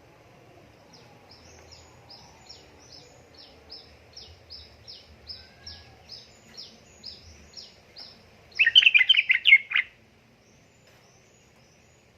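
Yellow-vented bulbul (trucukan) calling: a long run of short, high, downslurred notes, about three a second and slowly growing louder, then a loud, rapid bubbling phrase lasting about a second near the end.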